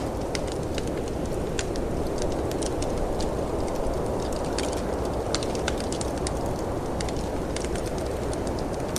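Fireplace wood fire crackling, with frequent irregular sharp pops and snaps, over a steady low rush of storm wind.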